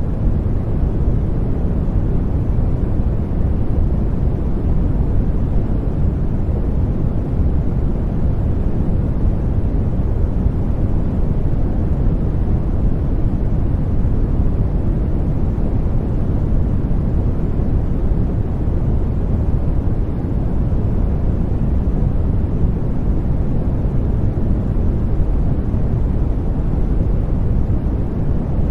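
Steady white-noise sleep sound, its energy heavy in the low end so that it comes across as a deep, even rushing hiss, unchanging throughout.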